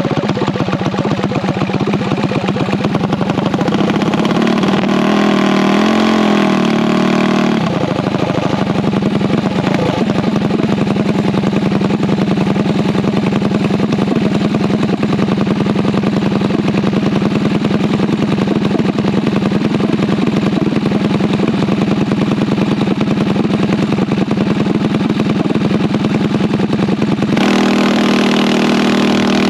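Mini bike engine running steadily at a fairly constant speed. Its pitch wavers up and down a few seconds in and shifts again near the end.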